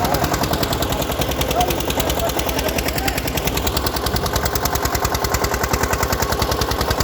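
Eicher tractor's diesel engine running with a fast, even exhaust beat.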